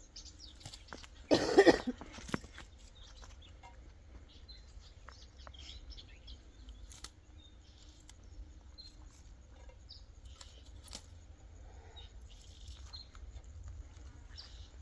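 A single loud cough about a second and a half in, followed by a low steady rumble with faint scattered clicks.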